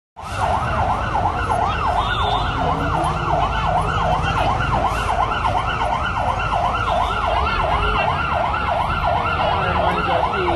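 Emergency vehicle siren on a fast yelp, its pitch sweeping up and down about three times a second without a break, over a low rumble.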